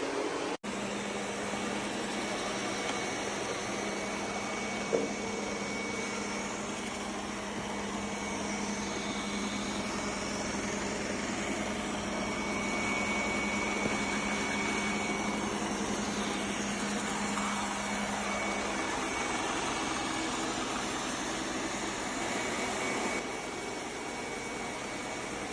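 Eureka E20 Plus robot vacuum running: a steady whir of motor and airflow with a thin high whine over it. The sound drops out for an instant just after the start.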